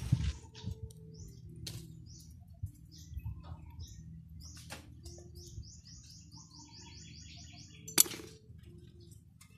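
A bird sings a quick run of about a dozen short, high chirps a little past halfway through. Scattered sharp clicks and clinks come from metal engine parts being handled, the loudest a single sharp click near the end.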